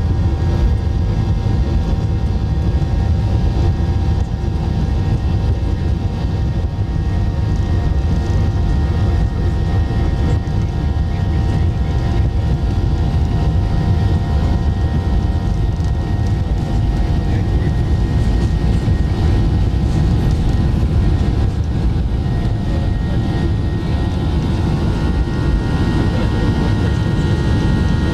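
Jet airliner engine and airflow noise heard inside the passenger cabin: a steady loud rumble with several faint, steady whining tones over it.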